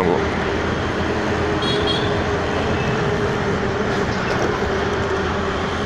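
Steady motorcycle riding noise in traffic: an engine hum holding one pitch under a wash of wind and road noise.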